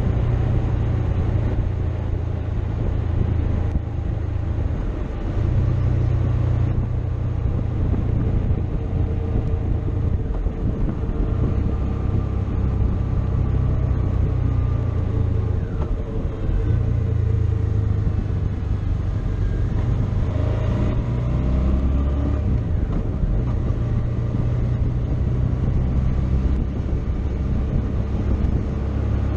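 Motorcycle riding along a road: the engine running with its pitch rising and falling a few times, under a heavy low rumble of wind buffeting the microphone.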